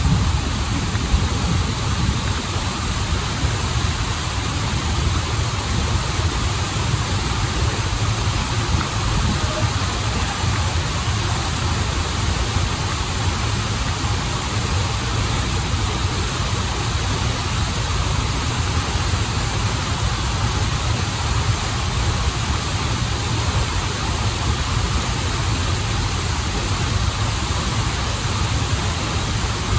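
Waterfall and flowing stream: a steady, even rush of water with a strong low rumble under a broad hiss.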